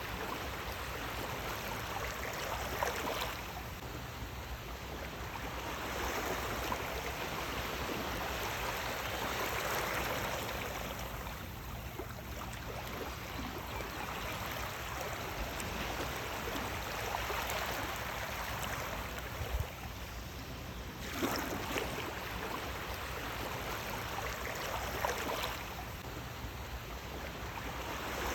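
Sea waves washing in, a steady rush of water that swells and fades every few seconds, with splashing at the surges.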